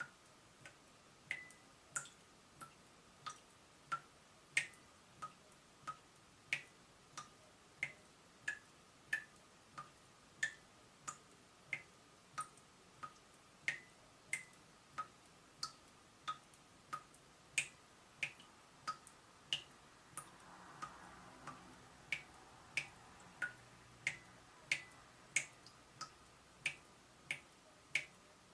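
Water dripping from a leaking tap: a steady run of short, sharp plinks, about one and a half drips a second, some drips higher-pitched than others.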